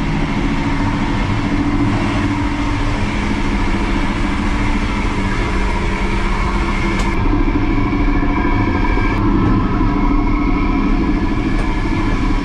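Steady mechanical noise of an old regional train, a loud rumble with a few held humming tones, heard from inside its cramped onboard toilet cubicle.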